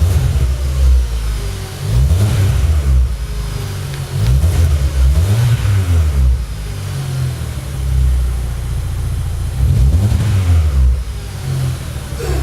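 Kia K3 with an ARES aftermarket dual variable (valved) exhaust, its engine revved in a series of short blips that rise and fall in pitch, with steadier low running between them.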